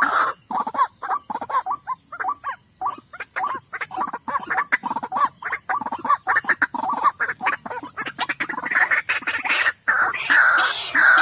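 White-breasted waterhen (ruak-ruak) calls: a rapid, continuous run of short croaking notes repeated over and over, growing louder and harsher near the end, over a steady high hiss.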